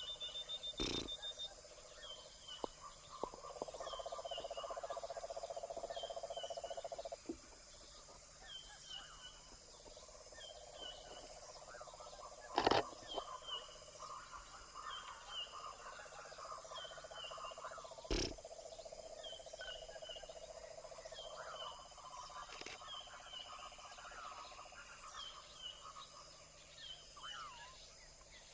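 Amazon rainforest wildlife chorus: a steady trilling hum that comes and goes in long stretches, under many short, quickly repeated chirps and scattered calls from frogs, insects and birds. Three sharp knocks stand out, the loudest near the middle.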